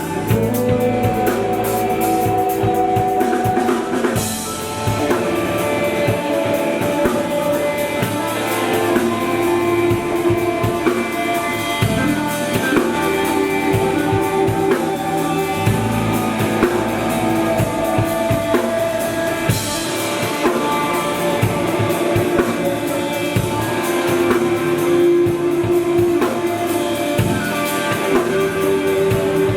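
Live band music: a drum kit with a pounding bass drum, and guitars playing sustained chords.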